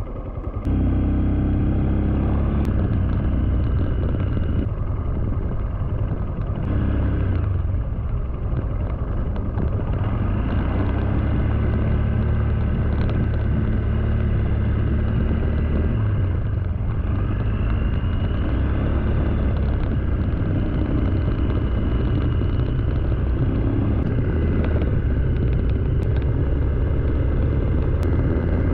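Motorcycle engine getting louder about half a second in as the bike pulls away from slow traffic, then running steadily on the road.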